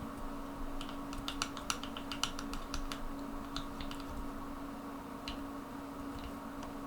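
A quick run of small, light clicks and taps from handling small paint bottles and a mixing cup while a paint wash is mixed, thinning to a few single clicks later, over a steady low hum.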